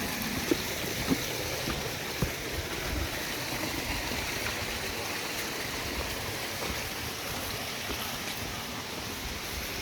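Mountain stream water flowing steadily, with a few light knocks in the first couple of seconds.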